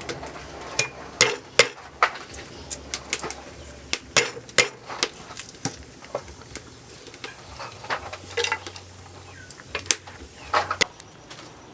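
Kitchen utensils and dishes clinking and knocking in an irregular run of sharp hits.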